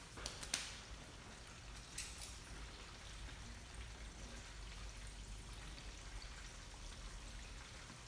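Breaded chicken deep-frying in hot oil: a faint steady sizzle with a few sharp crackles, the loudest about half a second in and another about two seconds in.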